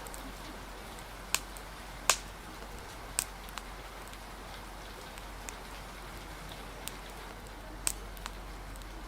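Steady rain hiss with a wood fire crackling over it: irregular sharp pops, the loudest about two seconds in.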